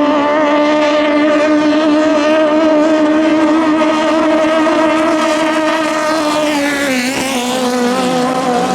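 Racing boat engine running at high revs with a steady, buzzing note. About seven seconds in the pitch drops, and a second, lower engine note comes in near the end.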